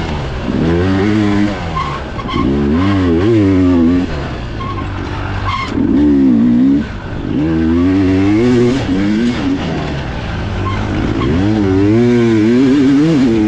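Dirt bike engine heard from the rider's helmet, revving up and backing off again and again, about five times, as the rider accelerates and shuts off through a trail section.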